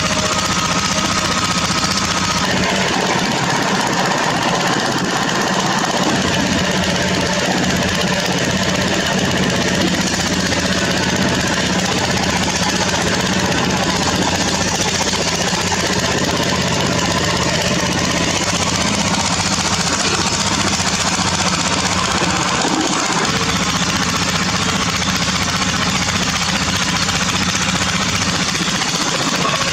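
Diesel engine of heavy construction machinery running steadily under load at a constant level.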